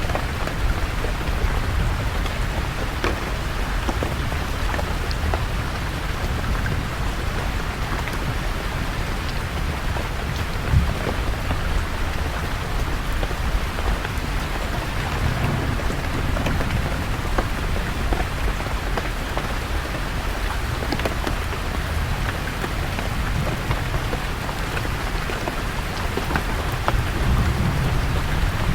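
Steady rain falling on leaves, with low rumbles of distant thunder swelling about halfway through and again near the end. One sharp tap stands out about eleven seconds in.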